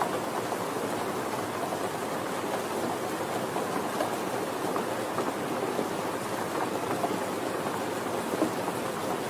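Steady, gentle rain falling, a dense even patter of drops.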